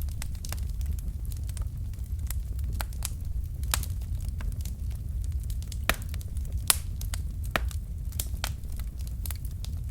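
Wood fire of burning logs crackling, with irregular sharp pops and snaps over a steady low rumble of the flames.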